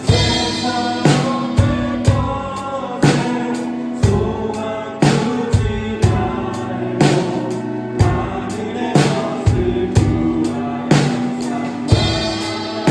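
Drum kit played along with a Korean contemporary Christian worship song: sung vocals over the recorded band, with drum hits on a steady beat.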